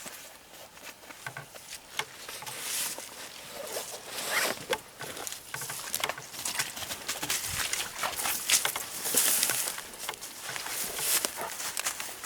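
Footsteps rustling and crunching through tall grass and brush, with irregular crackles and swishes of stems brushing past, louder in surges about 3, 4.5, 9 and 11 seconds in.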